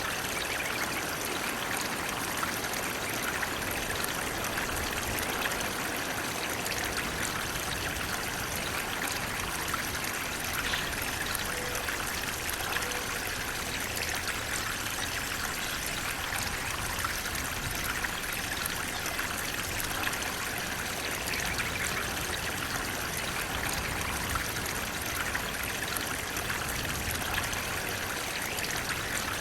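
Running water flowing steadily, an even rush of splashing with no let-up.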